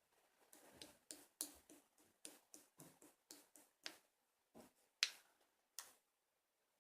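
Hands squishing and poking a mixed slime, making a quick irregular string of quiet, sharp clicking pops, the loudest about five seconds in.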